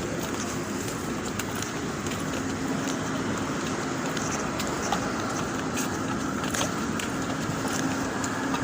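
A car running steadily, with an even engine hum and a few light clicks.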